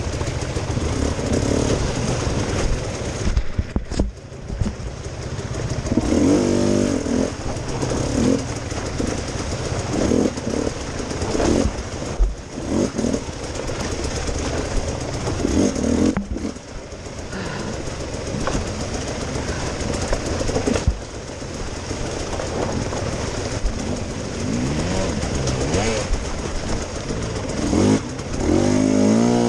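Enduro dirt bike engine revved in repeated short bursts of throttle between lower running, its pitch rising and falling again and again.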